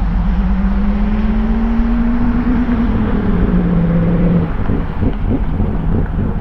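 Four-rotor rotary engine in a Mazda RX-7, running through an open exhaust. Its pitch rises gently and eases back down over the first few seconds, then the note turns choppy and uneven, with a run of separate pulses near the end.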